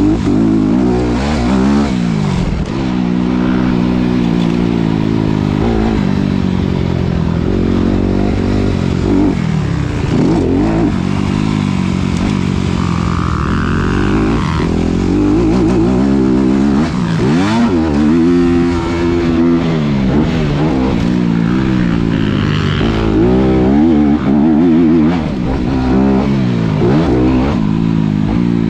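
A 2019 Honda CRF250RX's single-cylinder four-stroke engine being ridden hard, revving up and dropping off again many times as the throttle is opened and closed and the gears change.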